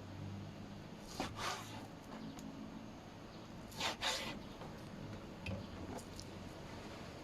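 Two short rasping scrapes, about a second in and again about four seconds in, with a few light clicks between them: hands and a utensil working raw chicken meat.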